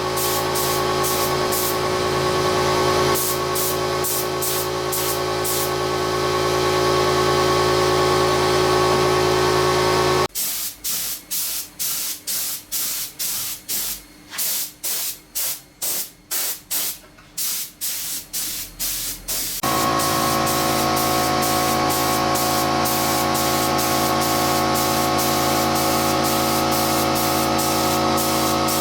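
Spray equipment running: a steady hiss over a machine hum for about ten seconds, then about twenty short spray bursts, roughly two a second, then a steady hiss and hum again.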